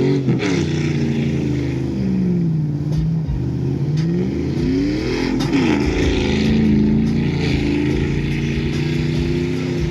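2004 Chevrolet Silverado's 4.8-litre V8 running through a straight-piped exhaust. The engine speed falls, holds, climbs to a peak about five and a half seconds in and drops back, then holds steady.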